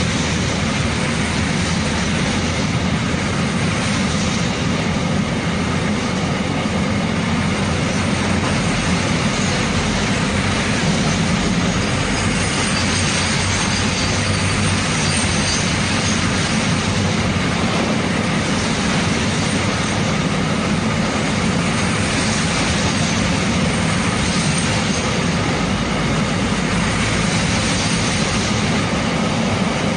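A long Indian Railways freight train of wagons rolling past close by: a steady, unbroken rumble and rattle of wheels on the rails.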